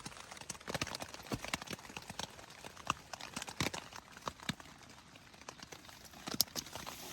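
Hiking footsteps on a rocky trail: a string of irregular sharp taps and clicks, the loudest about six and a half seconds in.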